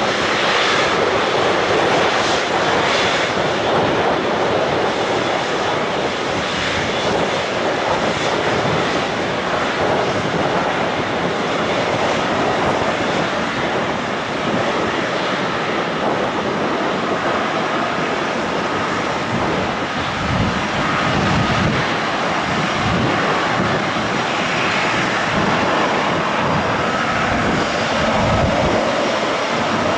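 Fixed-wing aircraft engines running loud and steady, a dense rushing noise with faint steady whine tones.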